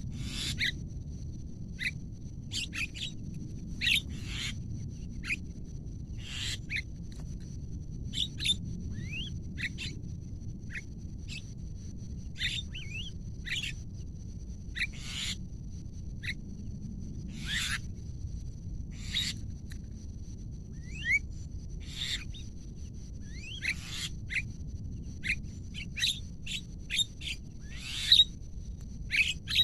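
Javan mynas calling: many short, sharp chirps and whistled notes at an uneven pace, coming thicker near the end, over a steady high-pitched whine and a low rumble.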